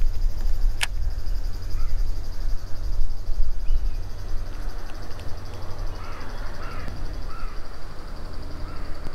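A bird gives several short calls in the second half, over a steady low rumble on the microphone. A single sharp click comes about a second in.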